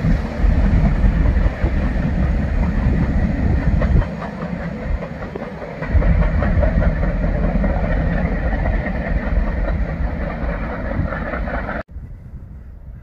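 Freight cars (boxcars and covered hoppers) rolling past and away on steel rails: a steady rumble with the clicking of wheels over the track. About twelve seconds in the sound cuts off abruptly to a much quieter background.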